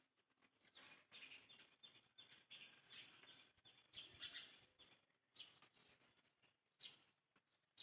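Faint, short, high-pitched chirping calls, repeated in clusters from about a second in.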